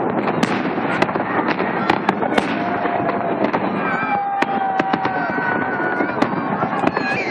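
Festive fireworks salute going off: many sharp bangs and pops in quick succession over continuous crackling, with a few long held tones joining about three seconds in.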